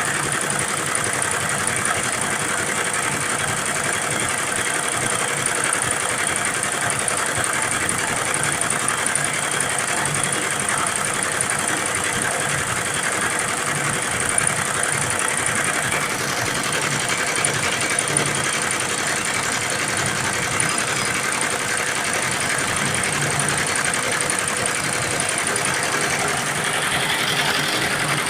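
Computerized embroidery machine stitching, running steadily at a constant pace.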